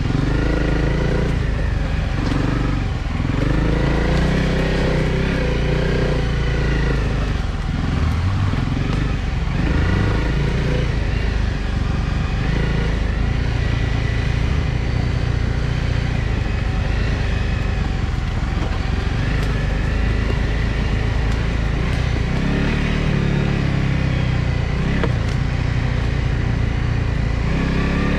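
Honda CRF250L Rally's single-cylinder four-stroke engine running while the bike is ridden, its pitch rising and falling with throttle and gear changes.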